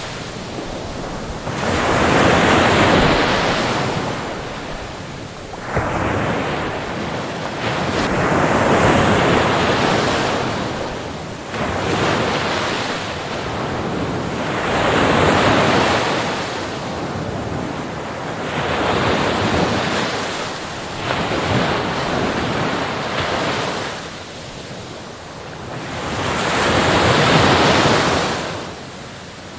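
Ocean waves breaking on a beach, the surf swelling and fading about five times, one wave every six seconds or so.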